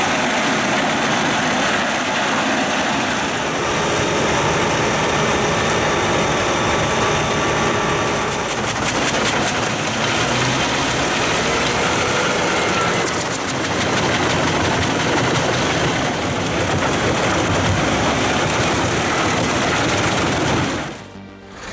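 Pezzolato PTH 1400/1000 self-propelled wood chipper at work, its Volvo engine running under load as it chips wood, a loud, steady mechanical din. It drops away briefly near the end.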